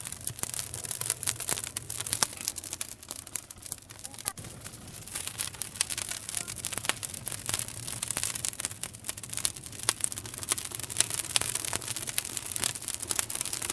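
Wood fire burning with a steady hiss and dense, irregular crackles and pops, several sharp pops a second standing out.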